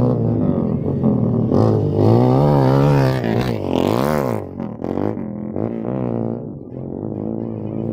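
Motocross dirt bike engine revving, its pitch climbing and dropping several times, loudest and fastest-changing about two to four and a half seconds in.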